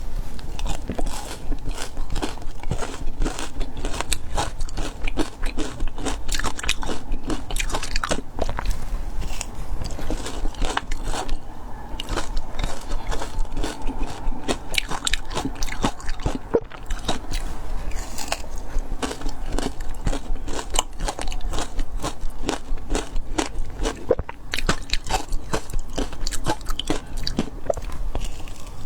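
Frozen matcha ice being bitten and chewed, a dense, irregular run of sharp cracking crunches.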